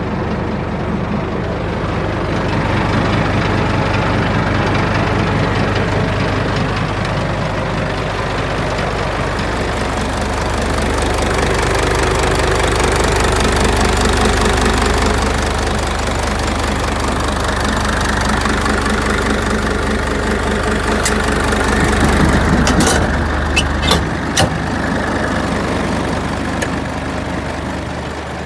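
Hino Ranger truck's diesel engine running steadily, its level swelling and easing a little. A few sharp clicks come near the end, and the lowest rumble drops away just after them.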